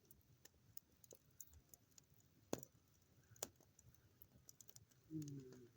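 Faint campfire crackling: sparse, irregular sharp pops and snaps, two louder ones about halfway through. A brief low vocal sound comes near the end.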